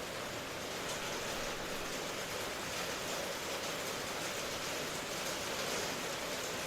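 Steady rain: an even hiss of many drops, with faint individual drops ticking now and then.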